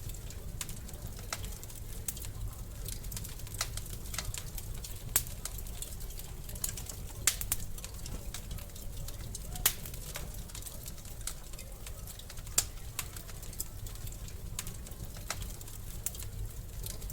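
Wood fire burning in a fireplace, crackling with irregular sharp pops, a few louder snaps among them, over a steady low rumble.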